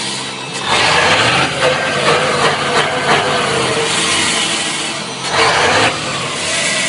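Iveco Turbostar 190.48's V8 turbodiesel being revved through a stock exhaust with an emptied muffler. The engine picks up just before a second in and holds high for several seconds. It drops back around five seconds in, then revs again briefly.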